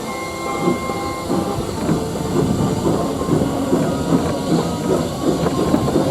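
A train rolling along the track with its wheels clattering over the rail joints in a repeated rhythm, over a steady hiss of steam.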